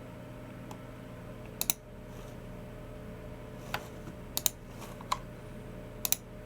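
Sparse key presses and clicks on a Logicool MX Keys Mini keyboard and Logicool G304 mouse: about six sharp clicks spaced a second or so apart, several in quick pairs, over a steady low background hum.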